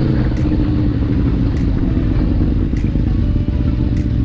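Motorcycle riding along a road: steady engine and road rumble with wind noise on the microphone.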